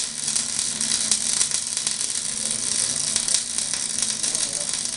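Arc welding: a steady crackling sizzle of the weld arc, with dense rapid crackles throughout.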